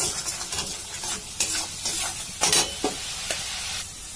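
Spice paste sizzling in hot oil in a metal kadhai while a perforated metal spoon stirs it and scrapes irregularly across the pan: the paste being fried on low flame until the oil separates. The sizzle drops away near the end.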